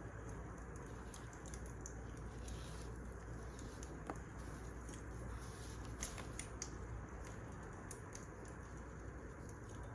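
Wood fire crackling: irregular sharp pops and snaps over a steady low hiss, with the clearest pops about four and six seconds in.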